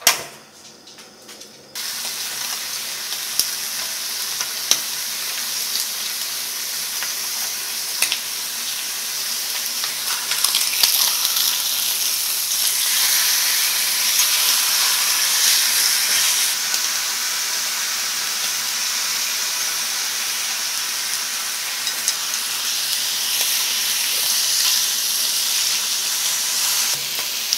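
Beef, scallop adductors and mushroom slices sizzling on a hot grill pan. The sizzle starts suddenly about two seconds in and then runs on steadily, with a few light clicks.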